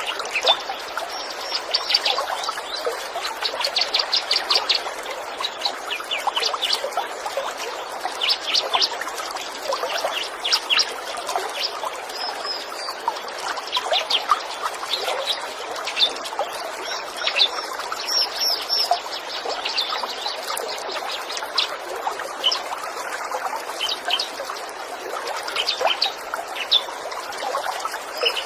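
Small songbirds chirping and giving rapid high trills over a steadily trickling stream.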